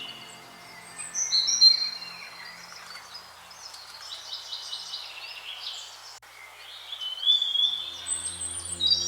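Wild birds singing and chirping in short phrases and trills, loudest about a second and a half in and again near the end. A soft, low sustained music drone fades out early and comes back about eight seconds in.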